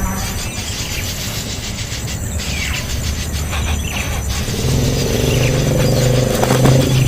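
An engine running with a low rumble, growing louder in the second half. Short high chirps come and go over it.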